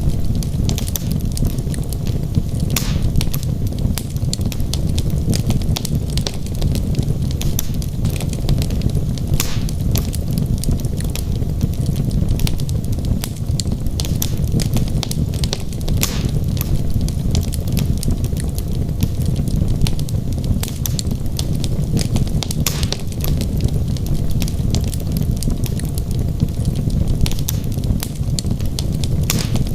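Wood logs burning in a fireplace: a steady low rumble of flame with constant small crackles and a few louder pops scattered through.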